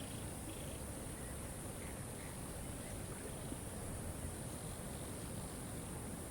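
Steady rushing of a waterfall, with a few faint, short bird chirps.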